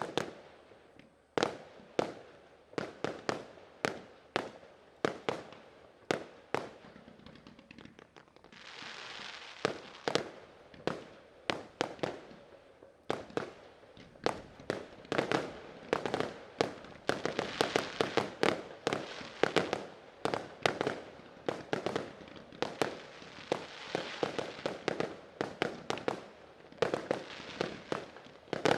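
Fireworks display: aerial shells bursting with sharp bangs, about one a second at first, then coming thicker and overlapping from about eight seconds in.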